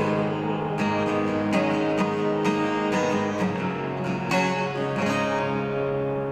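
Acoustic guitar strumming chords after the last sung line of the song, the final chord ringing out and starting to fade near the end.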